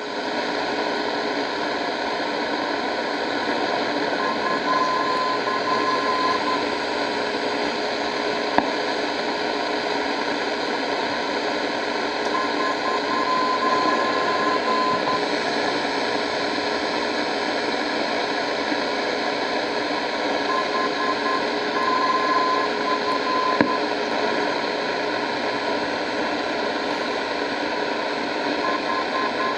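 Radio receiver hissing with steady static, while a thin high tone fades in and out several times. Two brief clicks break through, about a third of the way in and again later.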